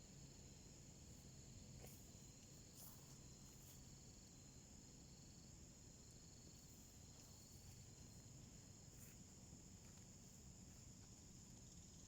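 Near silence: a faint, steady high insect trill, with a few soft crackles from a small wood fire burning in a homemade wood stove.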